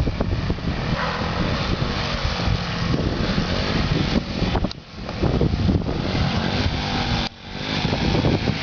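A dirt bike engine running some way off, mixed with heavy wind rumble on the microphone. The sound drops away sharply twice, about halfway through and again near the end.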